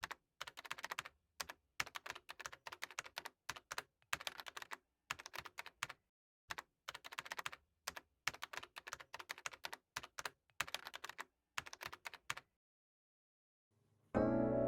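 Computer keyboard typing in short runs of rapid key clicks separated by silent gaps. Music starts near the end, louder than the typing.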